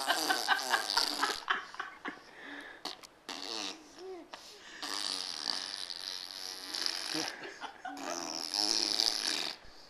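Baby blowing wet raspberries, buzzing and spluttering her lips in several long bursts, with a lot of spit.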